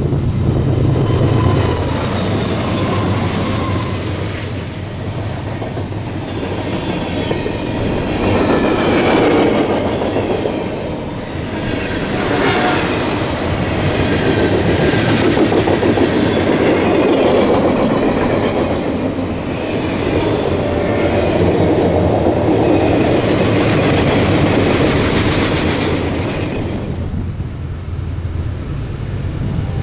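Freight train cars rolling past, wheels clattering over the rails in rising and falling waves, with faint wheel squeal now and then.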